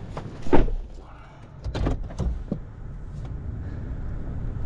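Vehicle door clunking shut about half a second in, followed by a few clicks and knocks, over the steady low hum of a vehicle engine idling.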